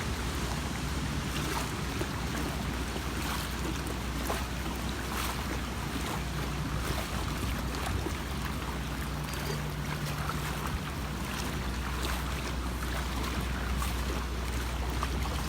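Boat motor running steadily under a loud rush of wind noise on the microphone.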